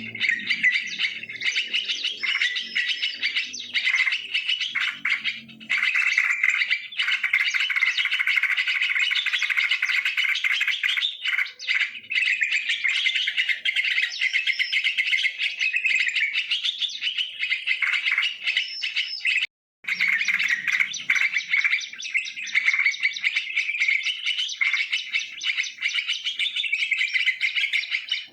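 Yellow-vented bulbuls (trucukan) calling and chattering without pause, many quick overlapping chirps. The sound cuts out for a split second about two-thirds of the way in.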